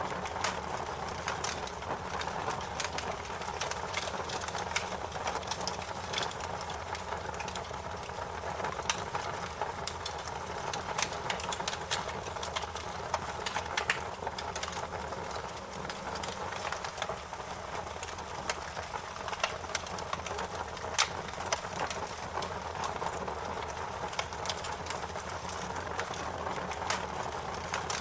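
Wood fire crackling: a steady hiss and rustle of burning with irregular sharp pops and snaps, a few louder ones now and then.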